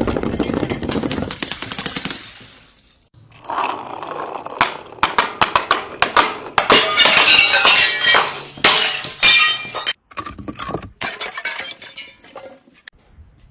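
Glass bottles being scratched, tapped and crushed. A gritty scrape comes over the first few seconds, then a dense run of sharp clinks and cracks from about four to ten seconds in, and finally scattered clicks.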